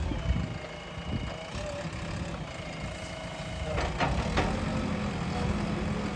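Diesel engine of a JCB backhoe loader running steadily, with a few sharp knocks about four seconds in.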